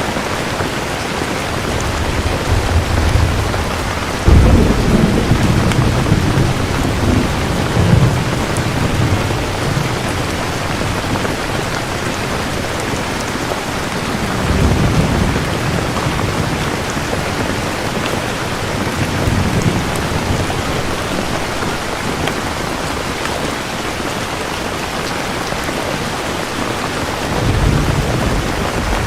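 Steady heavy rain falling, with rolling thunder: a sudden loud crack and rumble about four seconds in, and softer rumbles around the middle and near the end.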